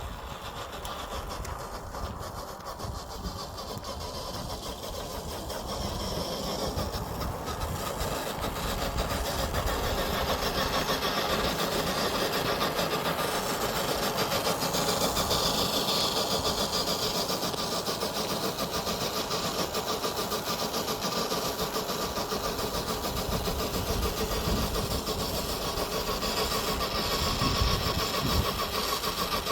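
Electric motor and gearbox of an FMS FJ40 RC crawler whirring steadily as it drives, growing louder about a third of the way in and then holding level.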